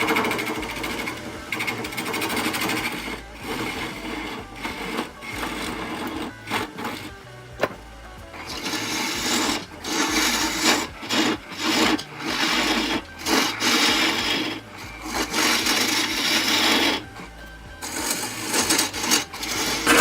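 Turning tool cutting into a spinning birch burl on a wood lathe: a rough scraping hiss in short passes that start and stop every second or so, over the lathe's running hum.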